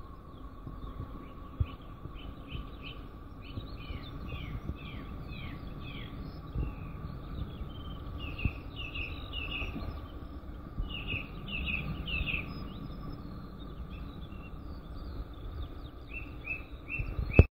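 Small birds chirping in quick runs of short falling notes, over a low steady background rumble.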